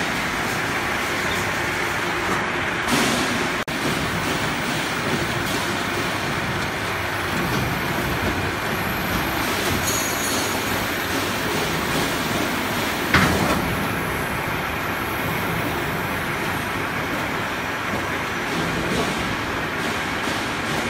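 Automatic HVAC duct production line running: a steady mechanical rumble and hiss, with one sharp bang about 13 seconds in.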